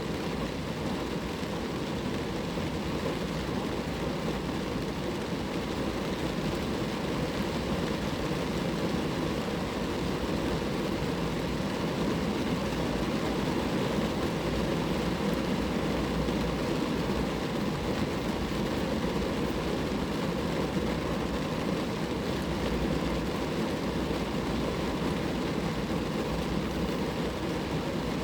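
Steady rain falling on a car, an even, unbroken noise.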